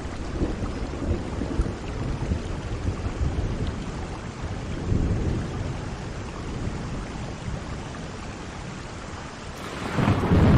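Steady rain with low rolling thunder, and a louder roll of thunder building near the end.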